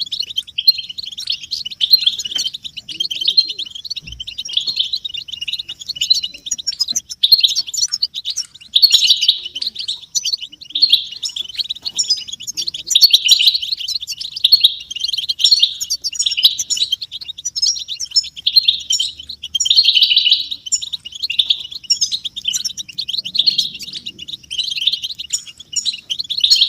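A group of European goldfinches twittering and calling without a break, in rapid, high-pitched overlapping chirps that swell and fade every second or two. These are the excited mating and readiness calls that are played to stir silent male goldfinches into song.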